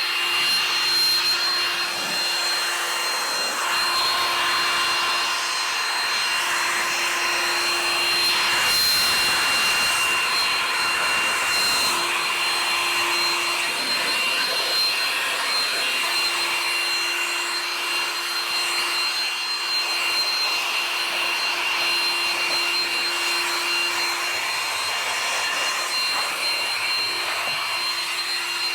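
Electric power tool running steadily while rubbing against a surface, giving a hissing, rubbing noise with a high motor whine over it. Its lower steady hum drops out briefly several times.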